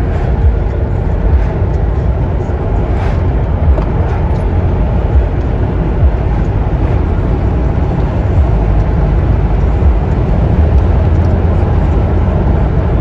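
Steady, loud low rumble of a vehicle in motion, with faint scattered knocks.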